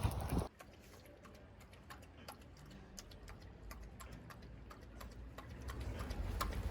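Faint, irregular light clicks and taps, several a second, after a louder sound cuts off about half a second in.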